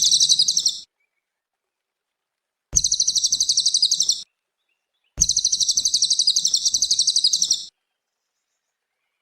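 A cililin songbird giving a rapid, high, evenly pulsed trill in three bursts: the first ends almost at once, the second lasts about a second and a half, the third about two and a half seconds. The dead silence between the bursts suggests an edited tutor recording.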